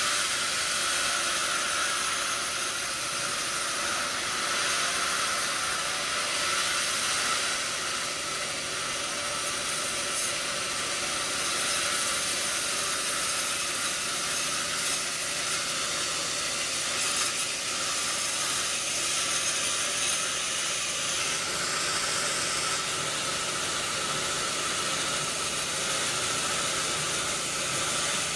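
Sawmill saw running, a steady hissing noise with a faint held tone, even in level throughout.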